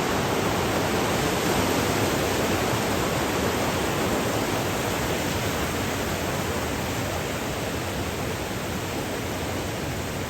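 Steady rush of river water tumbling over rapids, easing off a little toward the end.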